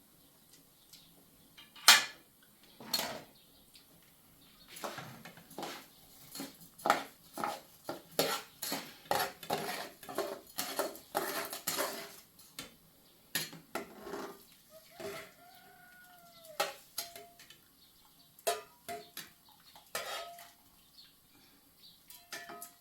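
A run of irregular sharp knocks and clinks of hard objects, mostly one or two a second and densest in the middle. A short squeak rises and falls about two-thirds of the way in.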